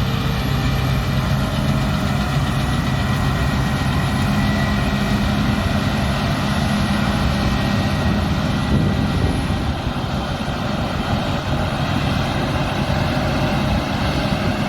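Combine harvester running steadily under load: a low, even engine drone with a steady high whine from the threshing and drive machinery.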